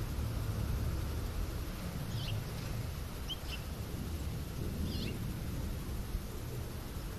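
A few faint, short bird chirps, around two seconds in, twice near three and a half seconds, and once about five seconds in, over a steady low rumble.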